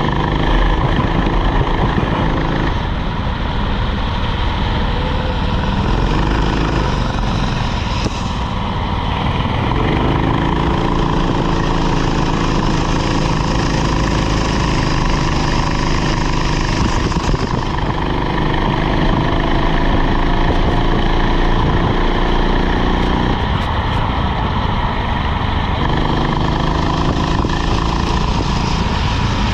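Rental kart engine running hard through a lap, its pitch rising on the straights and dropping back several times for corners, with a long high stretch in the middle.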